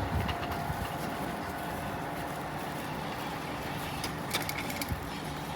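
The last of a Shibayama Railway 3500-series electric train's wheels thumping over the crossing's rail joints in the first half-second, then a steady outdoor background hiss as the train moves away, with a few light clicks about four seconds in.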